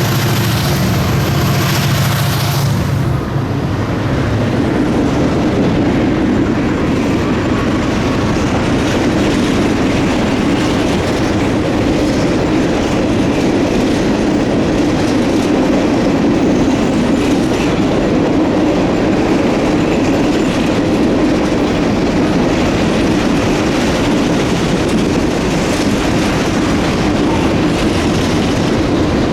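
A freight train's cars rolling past, a steady rumble with steel wheels clattering on the rails. A diesel locomotive's engine drone is heard in the first few seconds and drops away about three seconds in.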